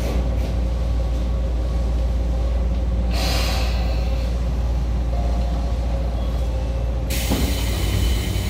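Tobu 9000 series electric train running, heard from inside the car as a steady low rumble. A short hiss of air comes about three seconds in, and a louder hiss of air starts suddenly about seven seconds in.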